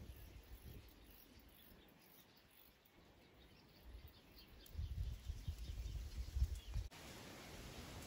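Outdoor ambience with small birds chirping faintly in the background. A low rumble of wind on the microphone comes in about five seconds in and stops abruptly just before seven seconds.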